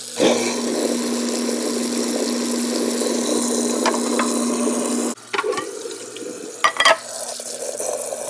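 Water running hard from a tap into a sink at a blocked drain, with a steady hum under it. The flow is cut off about five seconds in, followed by a few short clunks.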